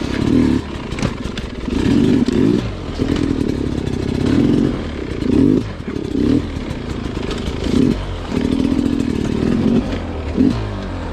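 Sherco two-stroke dirt bike engine revving in repeated short throttle bursts, each rising and dropping back, as on slow technical trail, with some clattering from the bike.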